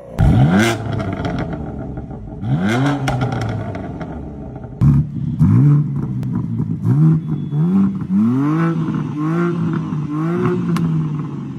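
BMW M3 engines being revved with throttle blips, each rev sweeping up in pitch and falling back. There are two separate revs early on, then an abrupt change in sound about five seconds in, then a quick run of blips about twice a second.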